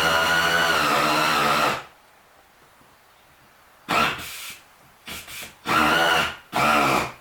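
Pneumatic air ratchet whining as it drives the seat-mount bolts tight: one long run that stops about two seconds in, then after a pause four short bursts as the bolts snug up.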